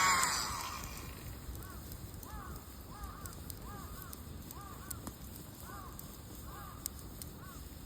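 A small battery-powered blower's whirring motor winds down in the first second. A bird then calls repeatedly, about ten short arched calls, over faint scattered clicks.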